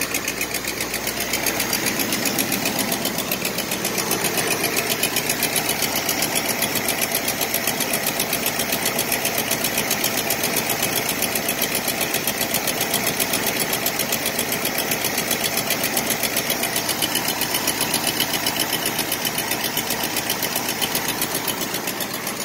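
Car engine idling steadily, heard up close under the open hood, with a fast, even ticking over the running.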